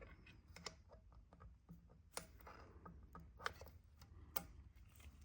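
Quiet room tone with a few faint, sharp clicks and taps from small parts or tools being handled, the most distinct about two seconds in, three and a half seconds in and near the end.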